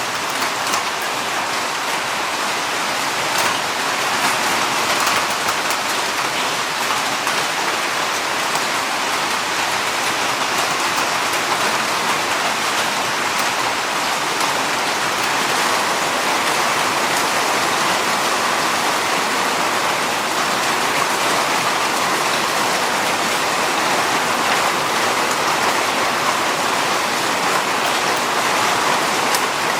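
Heavy monsoon rain falling steadily, a dense even hiss of drops on the ground and surfaces.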